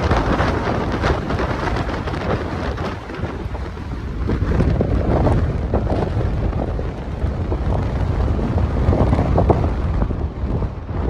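Strong, gusty wind buffeting the microphone: a heavy low rumble of wind noise that swells and eases with each gust.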